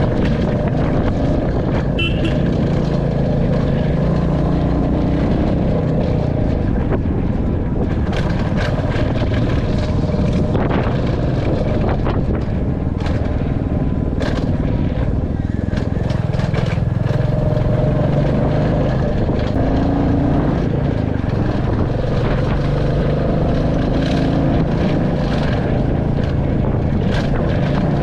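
Royal Enfield Classic 350's single-cylinder engine running under way, its pitch rising and falling with the throttle, with scattered short knocks and rattles.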